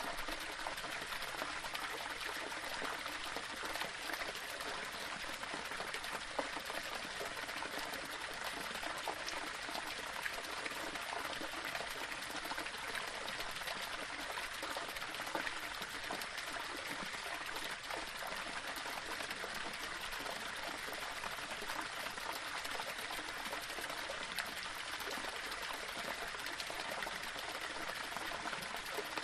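Small waterfall running steadily over stones, an even rushing and splashing of falling water.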